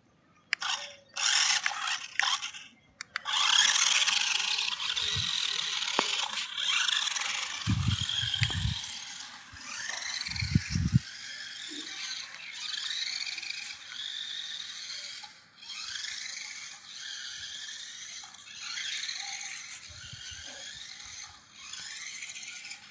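Toy monster truck being run about, making a scraping, whirring mechanical noise whose pitch repeatedly rises and falls, in stretches with short breaks. A few low thumps come about a third of the way in and again soon after.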